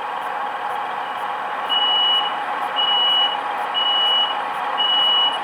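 Door-warning beeps of an Irish Rail 29000 class diesel railcar, played by a model-railway DCC sound decoder: four high beeps, about one a second, starting a couple of seconds in, over the steady idle of the diesel engine.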